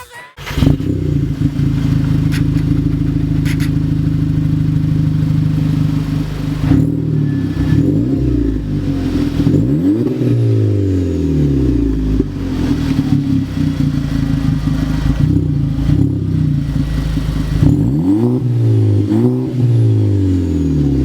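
Skoda Octavia 1.8 TSI turbocharged four-cylinder running through a custom Borla exhaust (universal and XR-1 round mufflers): steady running, then throttle blips that rise and fall in pitch, one set about ten seconds in and another near the end.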